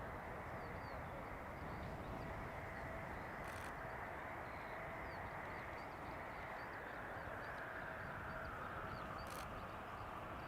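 Distant jet noise from a Eurofighter Typhoon FGR.4's twin EJ200 turbofans, a steady rush with a whine that slowly falls in pitch over the last few seconds. Small birds chirp throughout.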